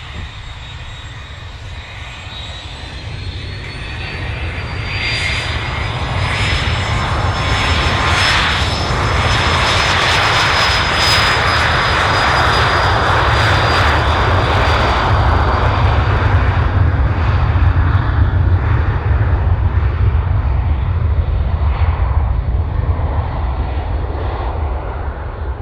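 Aircraft turbine engines on the takeoff run, with a whine that climbs in pitch over the first few seconds and then holds. The sound swells to a loud, steady noise and begins to fade near the end.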